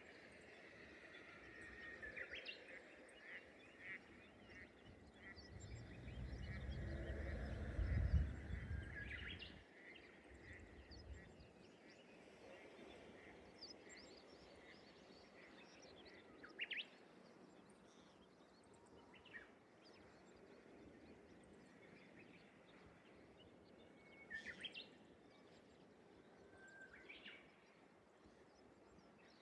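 Faint rural ambience with scattered short bird calls and chirps. A low rumble swells from about five seconds in and fades out near ten seconds.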